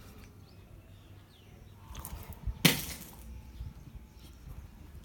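A small plastic bottle of water hitting the ground with one sharp, loud smack about two and a half seconds in, after being dropped from a height.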